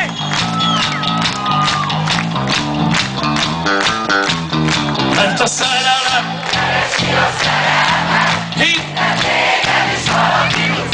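A live rock band playing at full volume with a steady drum beat and bass line, while the crowd sings and shouts along.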